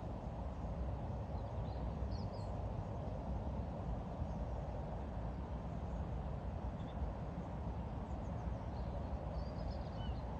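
Steady low rumbling background noise with a few faint, short bird chirps scattered through it.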